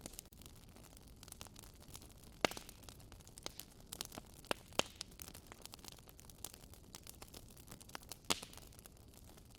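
Wood fire burning in a fireplace: irregular sharp crackles and pops over a faint hiss, with the loudest pops about two and a half seconds in, near five seconds and near the end.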